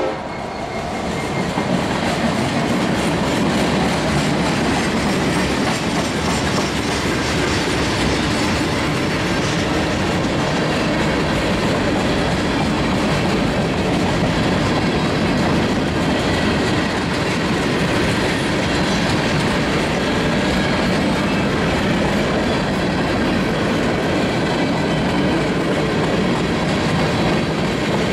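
Freight cars of a long mixed freight train rolling past close by: the steady noise of steel wheels on the rails.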